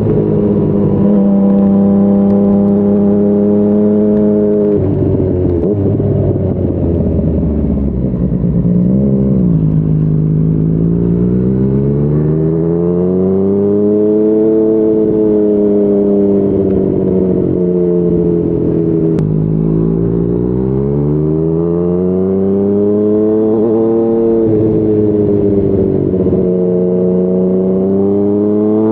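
Motorcycle ridden at speed: a Yamaha MT-09's three-cylinder engine through a Yoshimura R55 slip-on exhaust. The engine note rises and falls as the throttle opens and closes, dropping sharply a couple of times early on and then swelling up and easing off in long sweeps.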